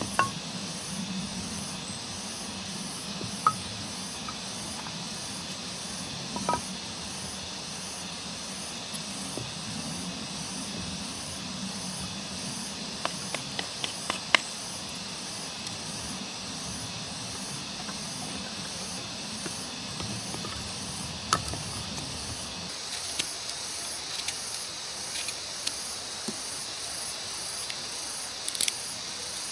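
Steady outdoor hiss, with scattered sharp clicks and taps. A low hum underneath stops about three-quarters of the way through.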